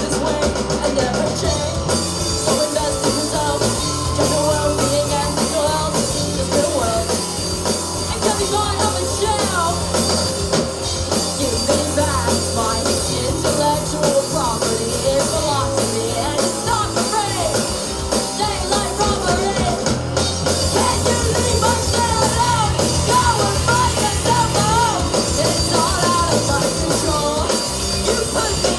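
Live rock band playing a song, with a singer over a band backing that includes a drum kit.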